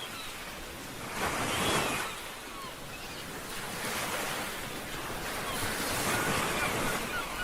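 Ocean surf washing in repeated surges, one swelling about a second in and a longer one from about four seconds, with faint short high calls scattered over the wash.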